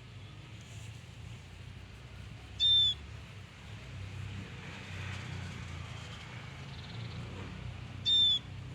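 Ashy prinia giving its short, high, shrill territorial call twice, about five and a half seconds apart, over a low steady rumble.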